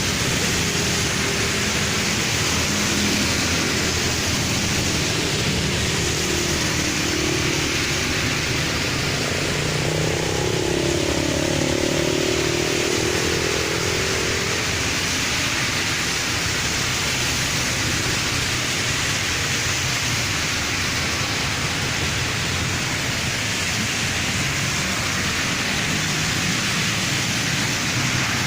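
Heavy rain and traffic on a wet road: a steady hiss of rain and tyres on standing water, with a vehicle's engine passing by about ten seconds in.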